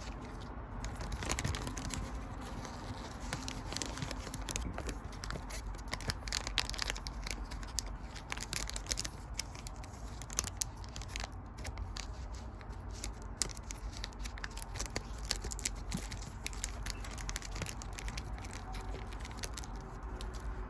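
Crinkling and rustling of trading card packaging being handled, with many small crackles and clicks.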